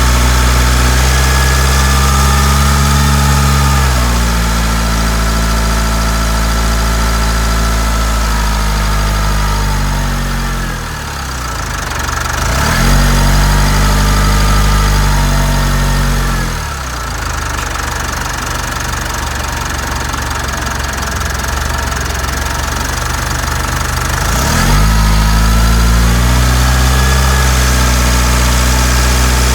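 Mitsubishi Delica D5 diesel engine running at idle in the engine bay, its speed shifting several times: it sags and picks back up about eleven seconds in, dips again near seventeen seconds, and rises again near twenty-five seconds.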